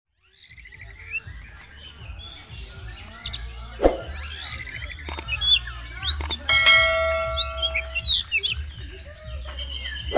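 Male oriental magpie-robin (kacer) singing a fast, varied run of whistles, chirps and pitch glides, with a held ringing note for a couple of seconds midway. A steady low hum runs underneath.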